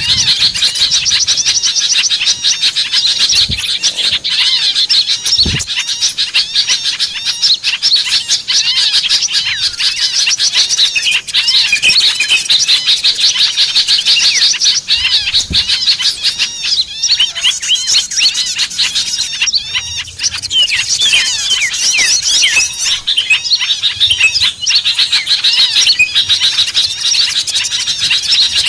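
A dense, noisy chorus of many small birds chirping and twittering without a break, from a bird-lure recording made to draw small wild birds in. A few soft low thuds sound briefly beneath it.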